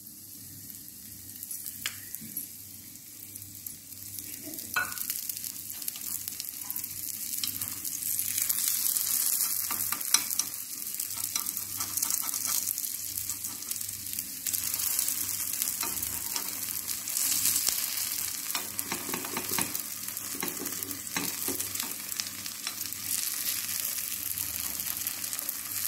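Appe (rice-batter dumplings) frying in oil in an appe pan, with a steady high sizzle that grows louder about eight seconds in as oil is added and they are turned. Scattered light clicks and scrapes come from a metal spoon flipping them in the pan's cups.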